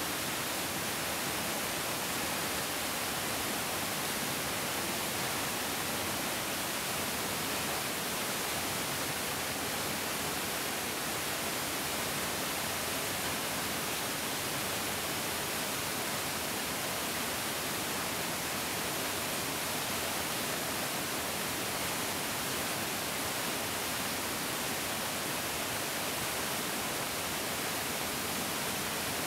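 Mountain stream flowing: a steady, even rush of water with most of its energy in the upper range and no distinct splashes or changes.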